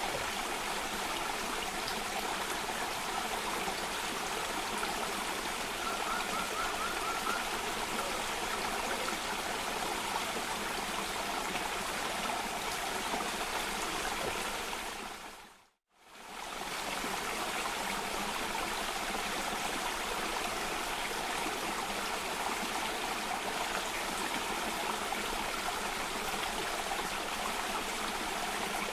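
Water rushing steadily down a waterfall, an even hiss-like flow. It fades out to silence a little before halfway through and fades straight back in.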